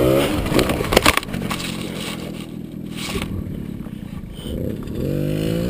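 Mini dirt bike engine revving, then a clatter of sharp knocks about a second in followed by scraping. The engine revs up again near the end.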